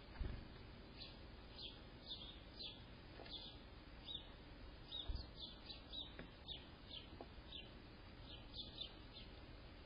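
Small birds chirping faintly: a run of short, high cheeps, two or three a second. There are two soft low thumps, one near the start and one midway.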